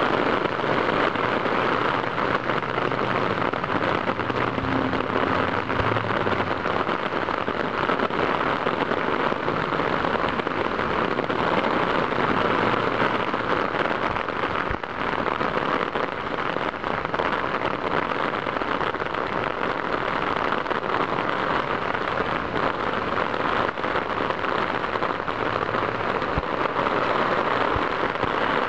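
Steady rain falling, a dense, even patter of countless small drops, heard muffled through the plastic of a waterproof camera case.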